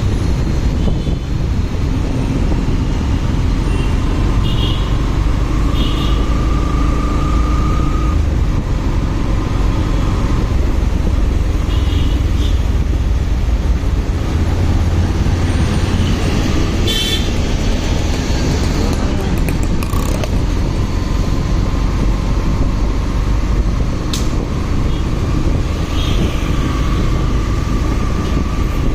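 Motorcycle ride in traffic: heavy steady wind rumble on the rider's microphone over engine and road noise, with a few short high chirps.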